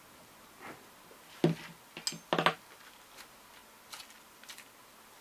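Clicks and light clinks of small metal angle-grinder parts being handled on the workbench, a few separate knocks, the loudest between about one and a half and two and a half seconds in.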